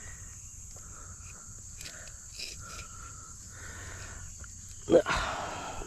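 Faint clicks and scraping as a small catfish is handled to work a deep hook out of its mouth. There is one sudden loud, short sound about five seconds in.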